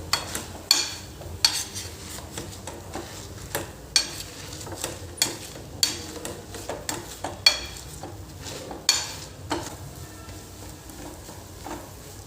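A utensil stirring and scraping food in a cooking pan, in irregular sharp strokes about once or twice a second, over a faint sizzle of frying. The strokes stop about ten seconds in.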